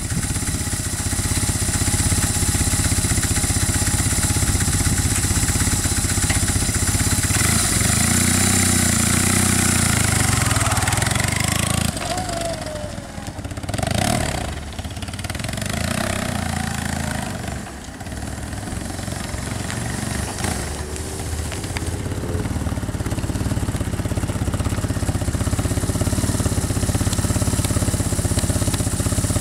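BMW R1200C's boxer twin engine running as the motorcycle is ridden away across a lot and back. The engine sound grows fainter in the middle and louder again near the end as the bike returns.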